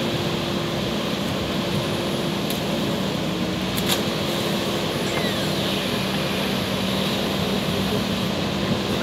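JCB backhoe loader's diesel engine running steadily with an even, unchanging note. A brief sharp click sounds about four seconds in.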